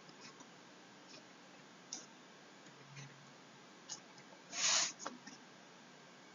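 Faint scattered clicks and ticks, with one short hiss about two-thirds of the way through.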